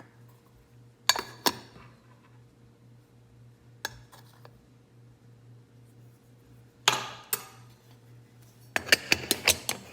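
Hard objects being handled: a few separate clinks and knocks, then a quick run of clicks and taps near the end, over a low steady hum.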